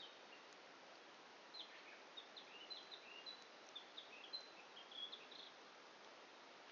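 A small songbird twittering: a quick run of short, high chirps that slide up and down, from about a second and a half in until near the end, over a faint steady hiss.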